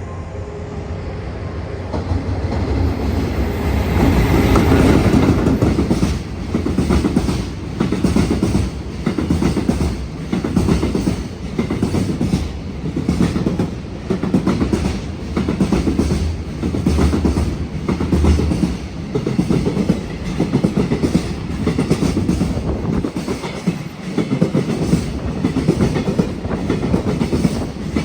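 Freight train hauled by an EF210 electric locomotive passing close by. The sound builds to its loudest a few seconds in as the locomotive goes past. Then the wagon wheels clack over the rail joints in a steady rhythm, one pulse a little over a second apart.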